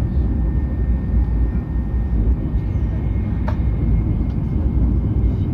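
Hokuriku Shinkansen train running at speed, a steady low rumble of running noise, with one short click about three and a half seconds in.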